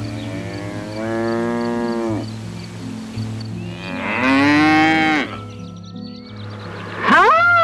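Holstein dairy cows mooing: two long moos, each dropping in pitch as it ends, the second louder. Near the end comes a short, higher call that rises and falls.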